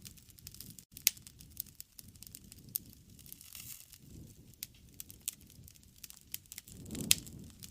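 Wood fire burning: irregular sharp crackles and pops over a low rumble of flame, with a louder swell and pop about seven seconds in.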